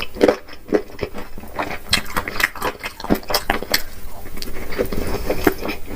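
Irregular clinks and knocks of utensils against dishes, many short sharp strikes at an uneven pace.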